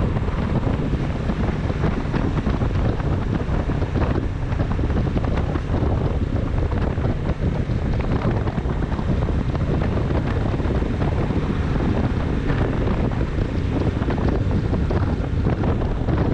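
Steady, loud wind noise buffeting the microphone on a moving motorcycle, with the engine and road noise running beneath it.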